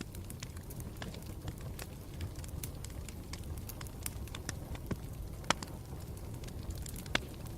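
Campfire burning with a steady low rumble and irregular crackles and pops, the sharpest about halfway through and again near the end.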